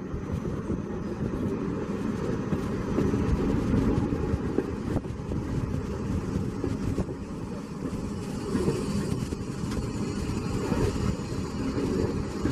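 Running noise of a moving train heard from on board: a steady low rolling noise with no pauses.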